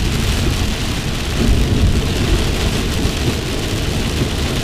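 Heavy rain drumming on a moving car's windshield and roof, heard from inside the cabin, over a steady low rumble of tyres on a flooded road.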